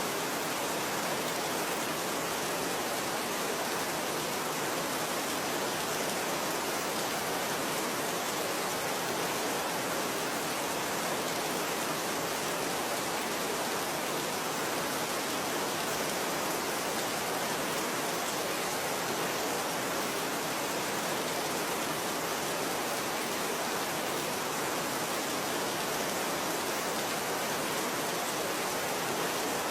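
Steady rain falling: a continuous, even hiss with no separate drops standing out and no change in strength.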